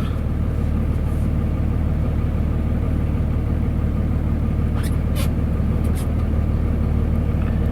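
A pickup truck's engine and road noise heard from inside the cab as it drives, a steady low drone. A few brief sharp clicks or knocks come about five and six seconds in.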